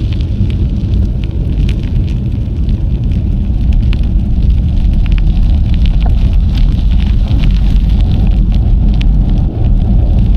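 Steady, loud low rumble of wind buffeting an action camera's microphone while cycling, with scattered small clicks and crackles from the bike's ride over the trail.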